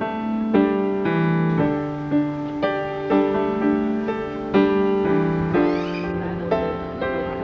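Background piano music: soft single notes and chords played at an unhurried pace.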